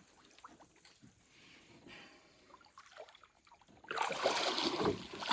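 Faint small clicks for several seconds, then, about four seconds in, a sudden loud rush of water splashing as a hooked fish thrashes at the surface beside the boat.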